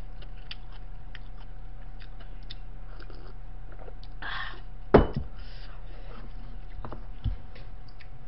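A person chewing food with small wet mouth clicks, over a steady faint electrical hum. A sharp knock about five seconds in and a softer one a couple of seconds later.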